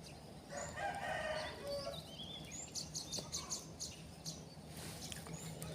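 A rooster crows once, a call about a second and a half long, starting about half a second in. Short high chirps of small birds follow, over a low steady hum.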